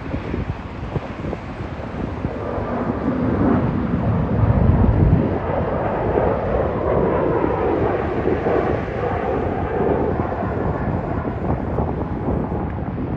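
Airbus A321neo jet engines at takeoff power, a steady rumble that swells to its loudest about four to five seconds in and then holds.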